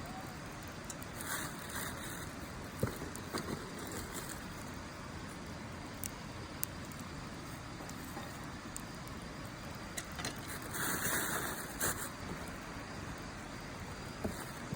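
Wood fire burning in a steel fire pit, with scattered sharp crackles and pops over a steady rushing background. About ten seconds in a louder hiss-like burst lasts a second or so.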